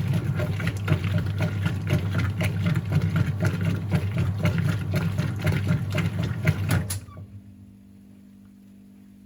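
Whirlpool top-load washing machine running with a steady low motor hum and rapid irregular clattering, which stops abruptly about seven seconds in, leaving only a faint hum.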